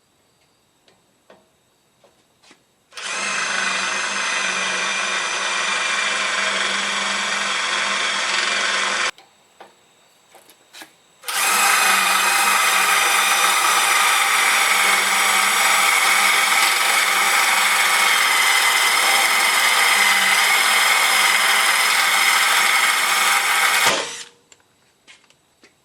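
Cordless drill running a small pilot bit into metal skid plates, in two steady runs: about six seconds, a short pause, then about thirteen seconds, each stopping abruptly.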